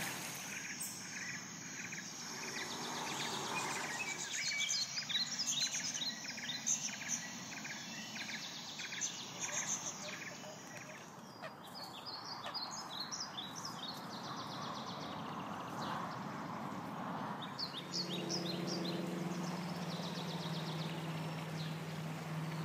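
Small birds chirping and calling in quick repeated series over a steady background hiss of outdoor noise. Near the end a low steady hum comes in.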